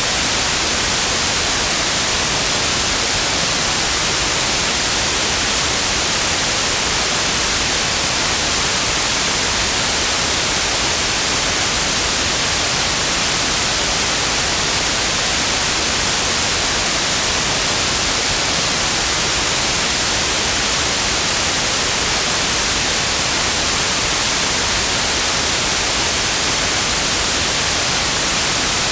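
Synthetic white noise: a steady, even hiss across the whole frequency range, unchanging throughout.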